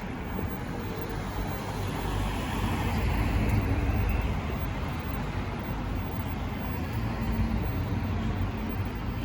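Road traffic on a city street: a steady hum of passing cars, with one vehicle going by that swells to its loudest about three to four seconds in and then fades.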